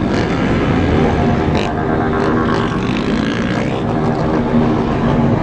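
Several motorcycle engines running at once, a steady dense engine sound with no breaks.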